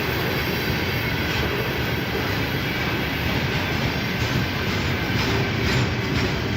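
Freight train passing close by, its wagons rolling over the rails with a steady rumble and faint wheel clatter.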